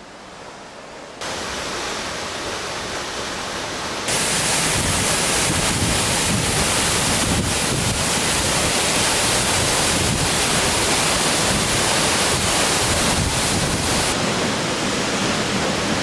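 Tunnel Falls, a tall waterfall, giving a steady rush of falling water that jumps louder about a second in and again about four seconds in, then eases slightly near the end.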